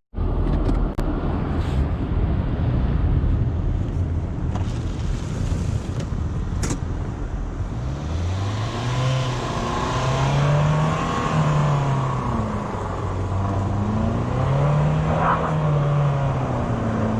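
Honda Civic's engine revving up and falling back several times as the car tries to back out on icy snow and is stuck. A few sharp knocks come in the first seconds.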